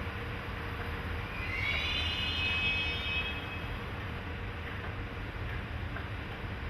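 Electric freight locomotive running through a rail yard: a steady low rumble, with a high whine of several tones that rises about a second and a half in and fades out about two seconds later.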